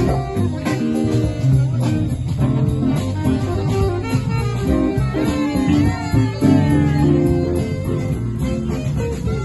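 Live band playing an instrumental break of a blues-rock song: lead guitar with bending notes over bass guitar and drums.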